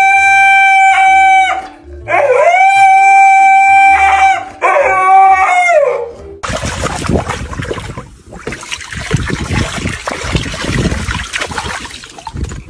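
A dog howling: two long, steady howls, each rising at the start and falling off at the end, then a shorter third howl. About halfway in, the howling stops and a loud, rough, unpitched noise takes over until the end.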